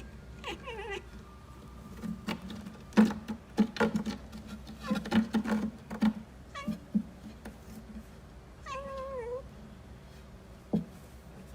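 A cat meowing, once about a second in and again with a wavering pitch near the end, with a run of short knocks or thumps in between.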